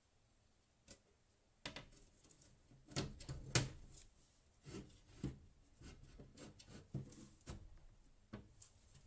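Irregular knocks, clicks and rubbing from hard objects being handled, starting about a second and a half in, with the loudest knocks near the middle.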